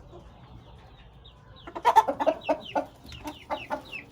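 Chickens clucking: after a quiet start, a loud run of short clucks begins a little under two seconds in, mixed with high chirps that fall in pitch, about three or four a second.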